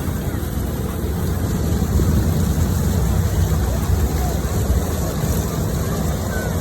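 A steady low motor rumble with a rushing noise over it.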